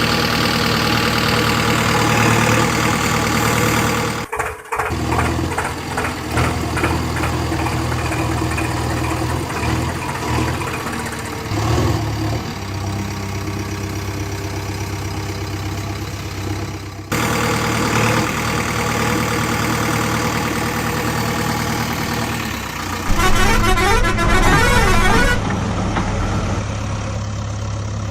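Heavy vehicle engines running steadily, in several clips cut together: the sound breaks off abruptly about four seconds in and again around seventeen seconds, and grows louder near twenty-three seconds.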